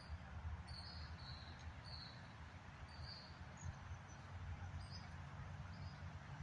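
A bird chirping: short high-pitched chirps, roughly one a second and irregularly spaced, over a steady low rumble.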